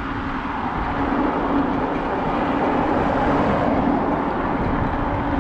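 Wind buffeting the microphone and road noise while riding an electric bike along a street, with a steady low hum that comes in about half a second in.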